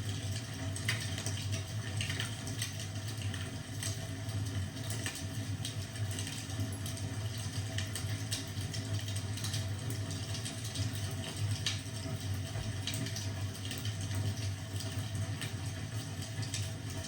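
Fireplace fire crackling, with irregular small pops and snaps over a steady low rumble.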